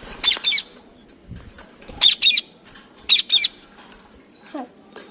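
Indian ringneck parakeet giving three loud, sharp two-note squawks.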